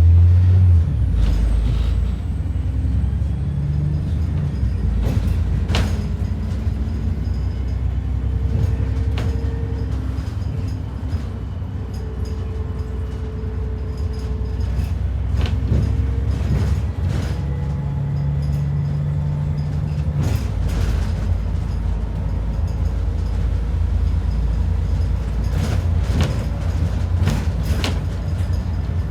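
Cabin sound of an ADL Enviro 400 double-decker bus on the move: steady engine and road rumble, with occasional knocks and rattles.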